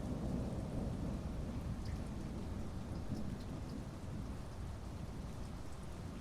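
Heavy rain falling steadily under a low, continuous rumble of thunder, with a few separate drops ticking about two to three and a half seconds in.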